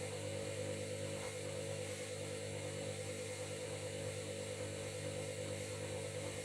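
Washing machine running with its motor at a steady speed: an even hum of several tones with a slight pulse.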